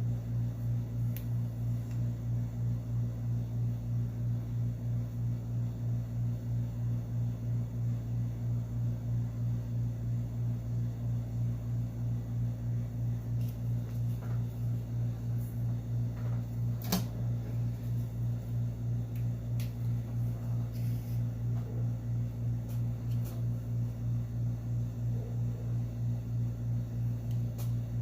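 A steady low mechanical hum, like a running fan, throbbing evenly two or three times a second, with one sharp click about 17 seconds in.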